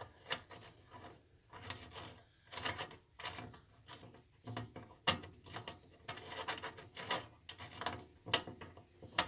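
Metal fuel filler cap being screwed back onto the tank of a Dietz Jupiter hurricane lantern: irregular rasping, scraping strokes of the threads, with a few sharp clicks.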